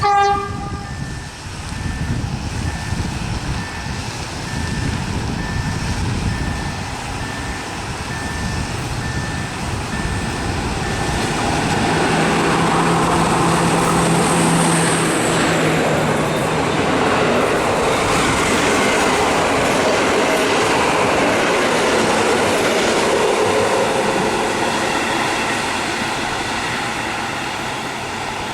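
Diesel locomotive SU4210 hauling a passenger train: a short horn blast at the start, then the train approaches and runs past, its engine and wheels loudest from about halfway through, fading near the end.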